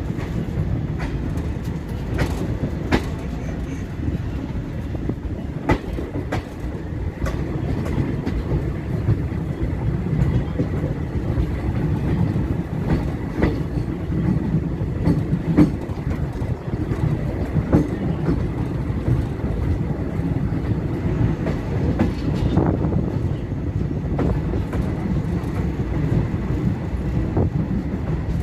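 Indian Railways passenger train running along the track: a steady low rumble with scattered clicks and knocks from the wheels over the rail joints.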